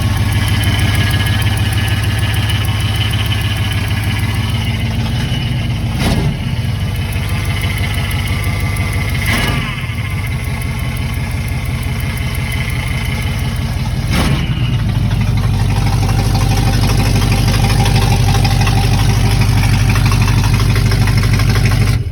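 1980 Chevy K30 pickup's small-block V8 idling steadily, with three sharp knocks along the way, then cutting off suddenly at the end as it is shut down.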